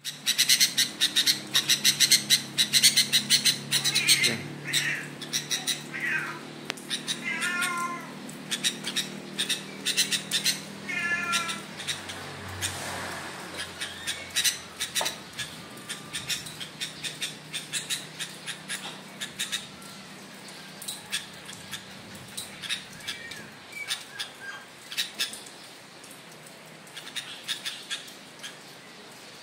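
Sooty-headed bulbul (kutilang) calling repeatedly in short bubbly, warbling phrases over a dense run of quick high chirps. It is busiest and loudest in the first dozen seconds and thins out after. A low steady hum underlies the first half and fades out about midway.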